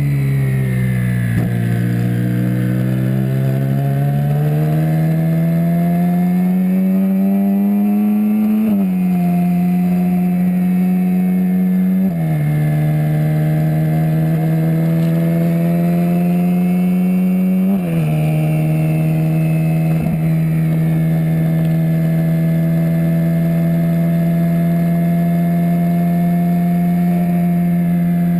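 Twin-turbocharged Ferrari 458 Spider V8 engine under way. Its pitch dips at first, then climbs as the car accelerates. Three upshifts, about 9, 12 and 18 seconds in, each drop the pitch, and the engine then runs at a nearly steady speed.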